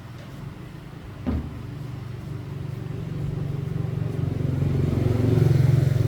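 A single knock about a second in, then a motor running with a low, pulsing rumble that grows steadily louder.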